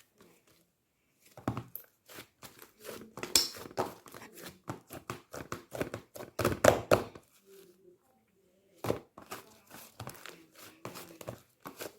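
Cheese slime being stretched, squeezed and poked by hand: quick runs of sticky clicks and crackles, starting about a second in, with a short pause about two-thirds of the way through.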